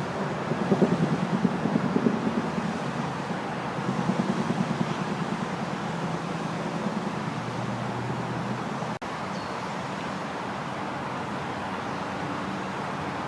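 Steady hum of road traffic, with a low engine drone.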